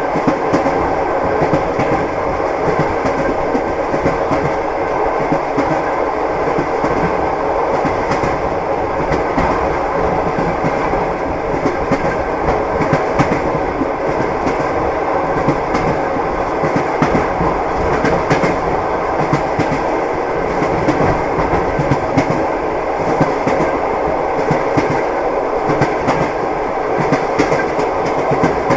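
Moving passenger train heard from inside the carriage: steady rumble with the wheels clattering over the rail joints.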